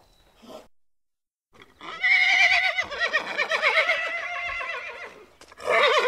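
A horse whinnying. A long neigh of about three seconds starts about two seconds in, its pitch quavering rapidly. A second, shorter call follows near the end.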